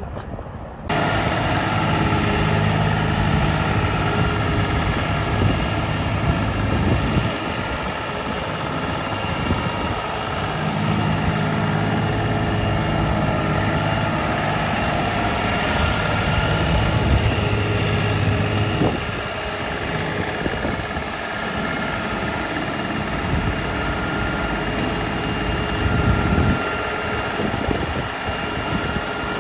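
2017 New Holland Boomer 35 compact tractor's diesel engine running steadily. It starts abruptly about a second in, and its low rumble grows louder and quieter several times.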